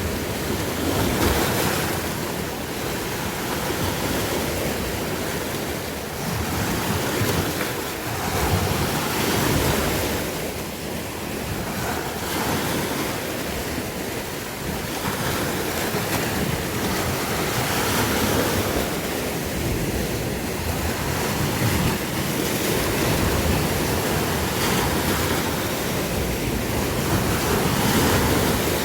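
Sea waves breaking and washing on the shore, the surf swelling and easing every few seconds, with some wind on the microphone.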